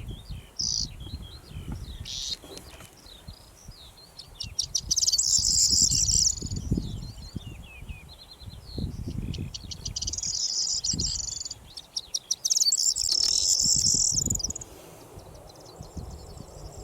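Corn bunting singing its jangling song three times, each phrase a run of quickening ticks that runs into a dense high jingle about a second and a half long. Wind gusts rumble on the microphone underneath.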